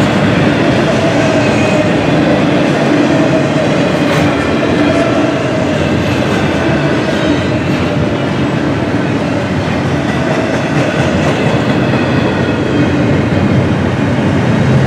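Double-stack intermodal container well cars rolling past close by: a steady, loud rumble of steel wheels on the rails with a clickety-clack.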